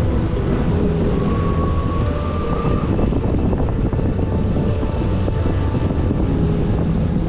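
Jet ski engine running steadily under way, with water spray and wind buffeting the microphone.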